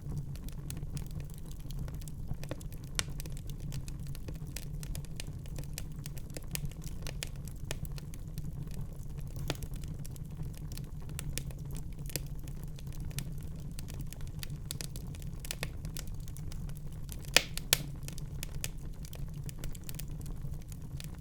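Wood fire in a fireplace crackling: many small pops and snaps over a steady low rumble, with two louder pops close together about seventeen seconds in.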